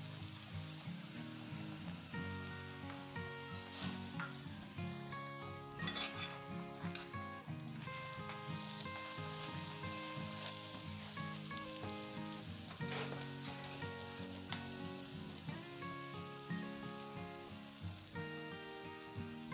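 Oiled chapati frying on a hot pan, sizzling steadily, while a metal spoon presses and spreads it across the pan, with a few louder scrapes about six seconds in.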